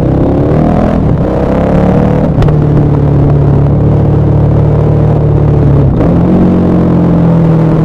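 KTM 1190 Adventure R's LC8 V-twin through a Wings exhaust, pulling with its pitch climbing. There are short breaks about two and a half seconds in and again near six seconds, like gear changes, with a steadier stretch between.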